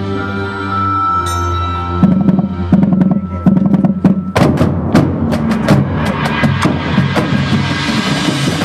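Marching band music: held ensemble chords give way about two seconds in to a percussion passage of sharp drum strikes that come thick and fast from about halfway, with a swelling wash of sound near the end.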